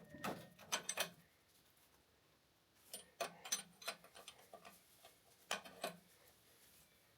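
Hand tools clicking and clinking against metal while working on a diesel injection pump, in three short bursts of rapid clicks.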